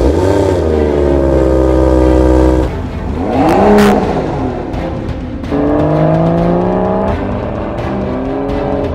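BMW 4 Series car engine through a valved aftermarket sports exhaust, its note climbing and falling with the revs: a sharp rev that peaks and drops about 4 s in is the loudest moment, and the pitch climbs again from about 5.5 s. Background music plays underneath.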